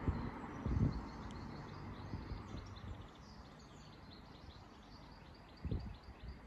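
Road traffic noise dying away, then small birds chirping in a quick, steady series, with a few low thumps near the start and again near the end.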